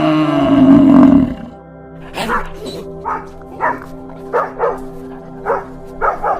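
A dog barking in short sharp barks, about a dozen, often two at a time, over steady background music. Before the barking starts, a loud, drawn-out animal call, the loudest sound here, ends about a second and a half in.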